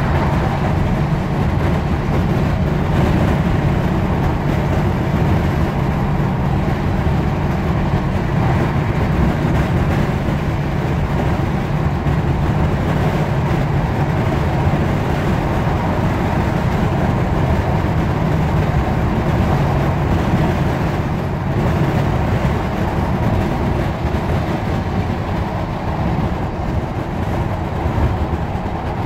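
Inside the passenger saloon of a Class 156 Sprinter diesel multiple unit under way: the steady running noise of its underfloor Cummins diesel engine and its wheels on the rails.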